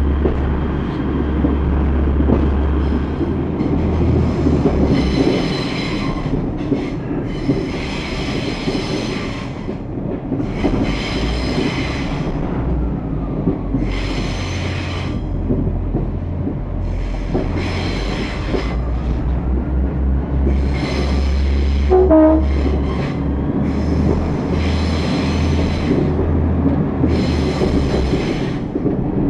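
Class 142 Pacer railbus underway: a steady low diesel drone and rail rumble, with repeated high-pitched bursts about every two to three seconds.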